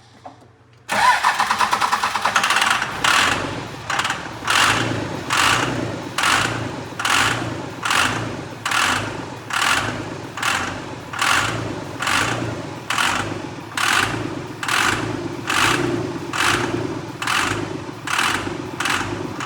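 A freshly rebuilt 24-valve Cummins 5.9-litre inline-six diesel catches about a second in on its first start and keeps running. A loud pulse repeats about every three-quarters of a second and slowly weakens.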